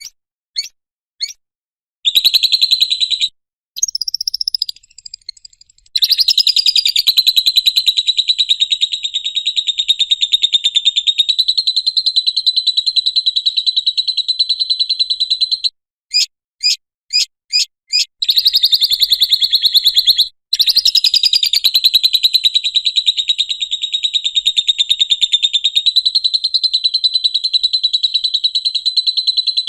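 Lovebird chattering in its long 'ngekek' style: very fast, even trills held for several seconds at a time, the longest about ten seconds, broken by a few short single chirps near the start and in the middle.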